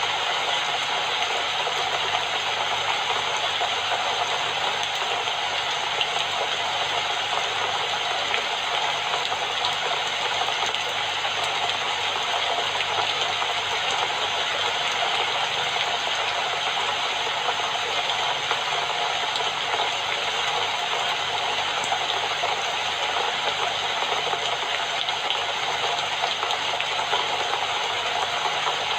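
Steady rain falling, a dense continuous patter without pauses or changes.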